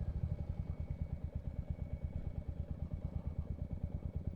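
Motorcycle engine running at low revs, a steady low note with an even pulse of about eight beats a second.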